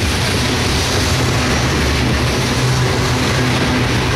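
Empty covered hopper cars of a CSX freight train rolling past at close range: a steady, loud rumble and rush of steel wheels on rail.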